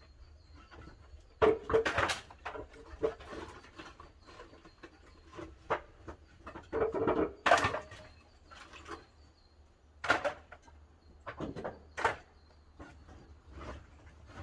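Irregular wooden knocks and clatters, in several short clusters: pine firewood being handled and stoked into a wood-fired kiln.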